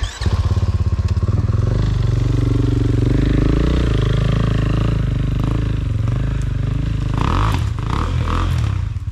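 Enduro motorcycle engine running loud and close, its revs rising and falling. It cuts in suddenly at the start.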